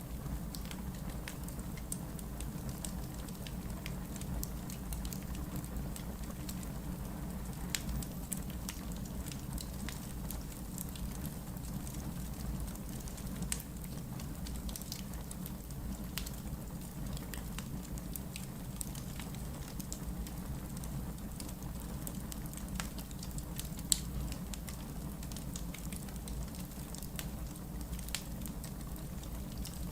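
Wood logs burning in a fireplace: a steady low rumble of flame with irregular crackles and small pops throughout, and one sharper, louder pop near the end.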